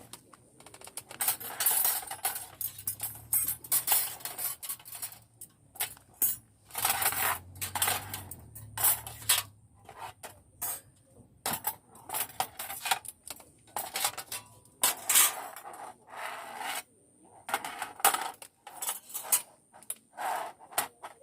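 Metal parts clinking and clattering against each other in irregular bursts, as if being handled or set down.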